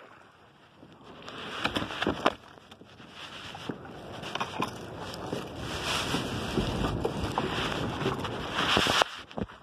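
Rushing noise of wind and water on a kayak, building to a steady rush over the last few seconds with a few sharp knocks, then cutting off suddenly near the end.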